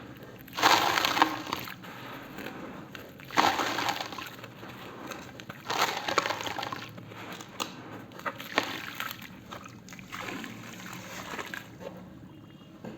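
Wet cement paste sloshing and splattering in five bursts, about one every two and a half seconds, as it is stirred or poured.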